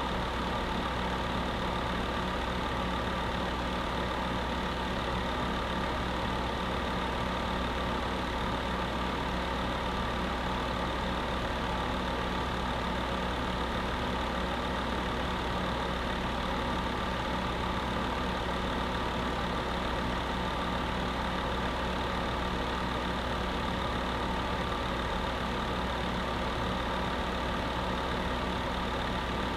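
Electric space heater running steadily: an even fan rush with a low, constant hum underneath.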